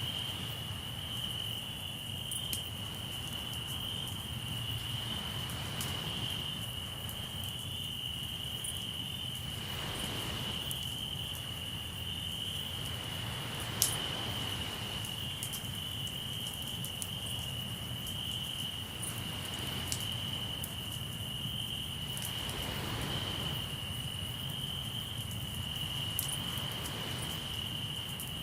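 Crickets singing in a steady, unbroken high trill over a campfire crackling with scattered sharp pops, one louder pop about halfway through. Sea waves wash in softly a few times under a low rumble of surf.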